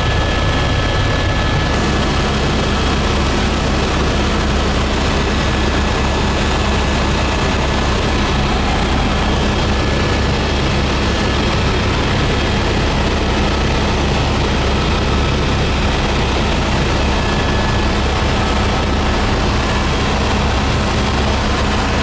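Helicopter engine and rotor noise, a loud steady drone with a steady whine over it.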